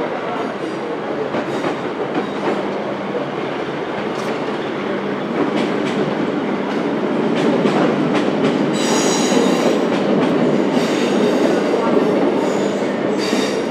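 Diesel multiple unit train running through the station on curved track: a steady rumble of wheels and clicks over the rail joints, growing louder about halfway through. High wheel squeal from the curve comes in twice in the second half.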